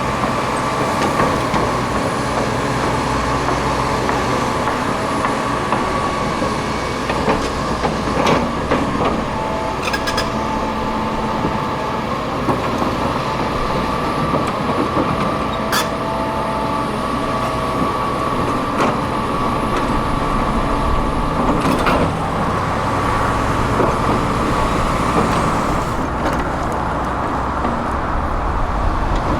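Heavy diesel construction machinery running steadily, with a few sharp metallic clanks.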